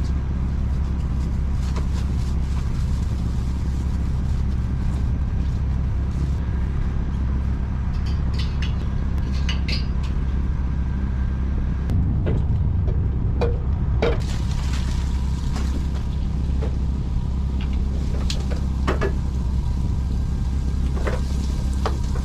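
Food truck under way: a steady low engine and road rumble, with scattered light clicks and rattles of loose gear.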